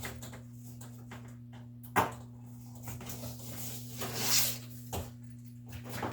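A steady low hum with scattered sharp clicks and knocks, the loudest about two seconds in, and a brief hiss around four seconds in.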